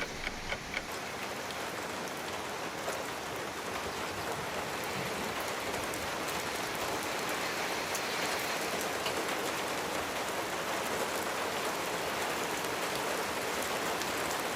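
Steady rain falling hard, a continuous hiss dotted with the clicks of single drops striking. A short run of regular ticks, about four a second, fades out in the first second.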